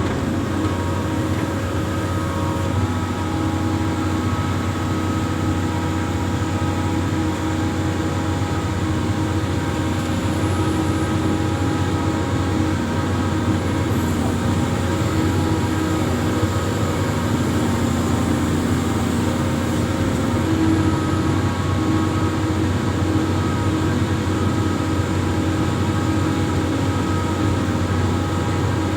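Diesel engine of an amphibious excavator running steadily, a continuous low hum with a few steady whining tones above it.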